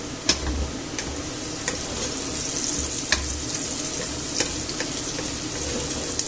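Onion and garlic sizzling in oil in a stainless steel pot while a wooden spoon stirs them, with a steady hiss and a few sharp knocks of the spoon against the pot.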